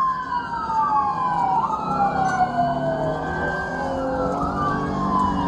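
Several police car sirens wailing at once during a pursuit, each tone sliding slowly down in pitch and then jumping back up, over the noise of the moving patrol car.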